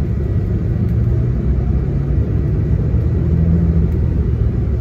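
Coach bus on the move, heard from inside the cabin: a steady low engine and road rumble, the engine note rising gradually as it picks up revs.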